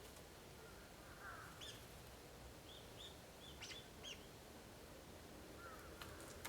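Faint, short high chirps of small wild birds, about half a dozen close together in the middle, with a couple of softer sweeping notes before and after, over a low steady hiss.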